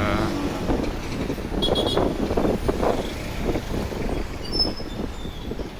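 Traffic noise heard from the back of a moving motorcycle: the motorcycle's engine and road rumble, with other vehicles around.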